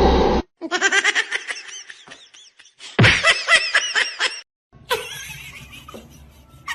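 A person laughing in two long fits of rapid, repeated bursts, the second fit higher-pitched and louder; fainter noise follows near the end.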